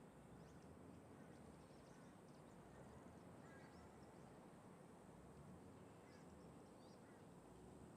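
Faint outdoor ambience: a steady low rumble of wind and traffic, with a few faint, short, high bird chirps scattered through it.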